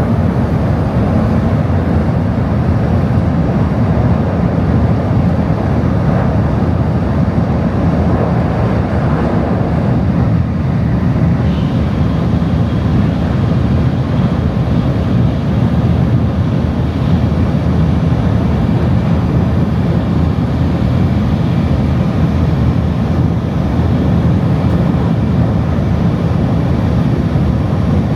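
Tokaido Shinkansen train running at speed, heard inside the passenger cabin: a steady, loud low rumble with a fainter hiss above it.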